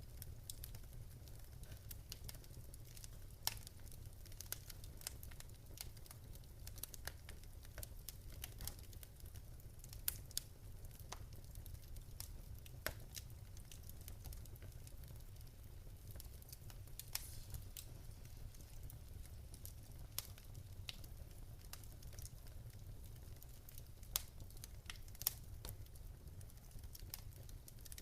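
Wood fire crackling in a fireplace: irregular sharp pops and snaps, a few louder than the rest, over a faint low rumble.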